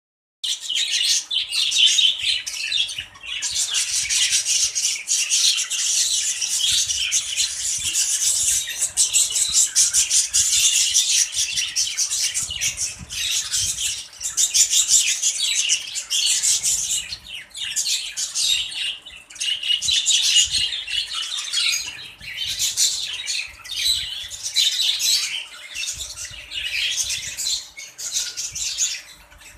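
A flock of budgerigars chattering and squawking without a break, many rapid high-pitched calls overlapping.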